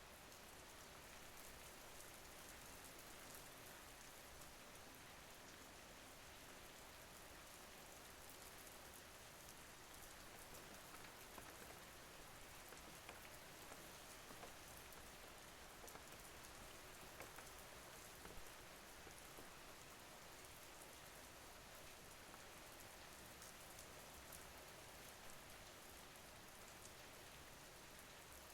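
Soft, steady rain falling, with scattered faint drop ticks.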